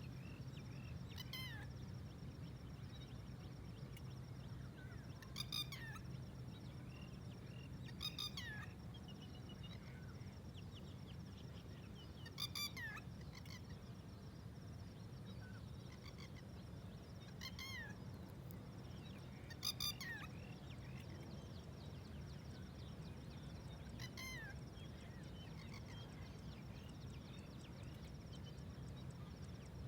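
A bird calling seven times at irregular intervals of a few seconds, each call a short, high note sweeping downward, over a steady low hum.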